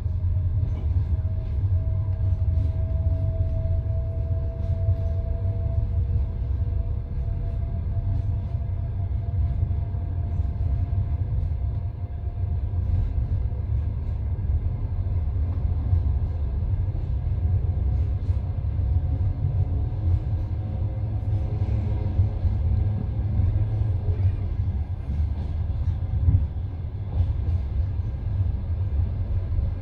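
Steady low rumble of a passenger train heard from inside the carriage, with a faint tone slowly rising in pitch over the first half and scattered light clicks.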